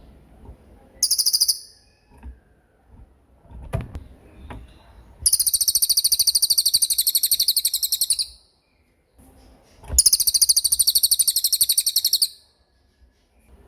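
Small songbird giving fast rattling trills: a short burst about a second in, then a long roll of about three seconds and another of about two, each made of rapid high pulses that waver in pitch.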